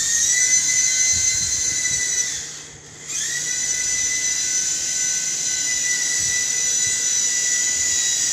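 Small electric motor and rotor of a toy remote-control helicopter running with a steady high-pitched whine. The whine dies away about two and a half seconds in and starts up again half a second later.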